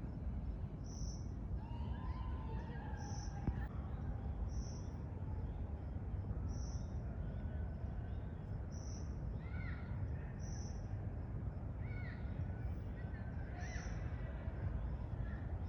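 Birds calling in woodland: a short, high note repeated about every one and a half to two seconds, with scattered chirps and other calls, over a steady low rumble.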